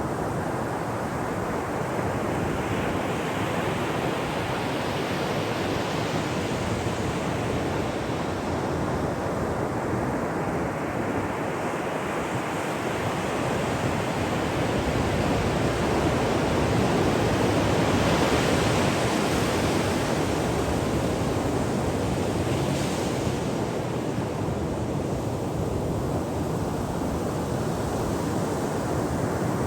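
Ocean waves breaking and washing up a shore: a continuous rush of surf that swells to its loudest a little past the middle, then eases off again.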